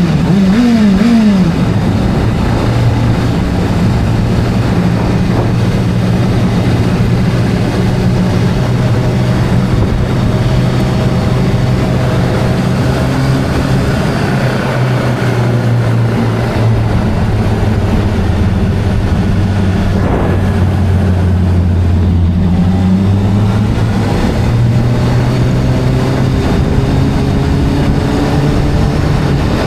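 Video-game motorcycle engine running steadily. The revs rise and fall quickly during the first second or so, then settle into an even drone with small changes in pitch.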